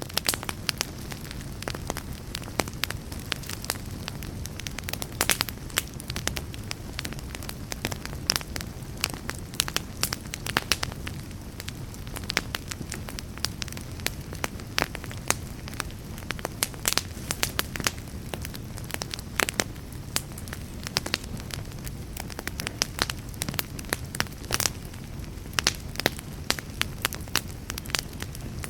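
Fire crackling: frequent irregular sharp pops and snaps over a steady low rush of burning.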